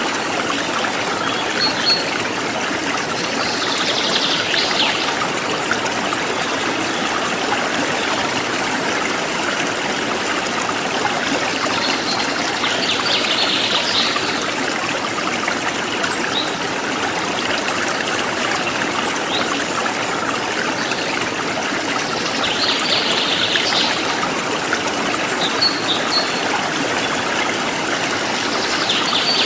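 Forest stream flowing steadily, a continuous splashing rush of water. Short high bird chirps come in over it about four times, roughly every nine or ten seconds.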